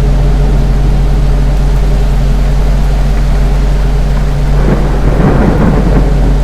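Ceiling fan running with a loud, steady low hum, and a louder rush of noise starting about four and a half seconds in and lasting about two seconds.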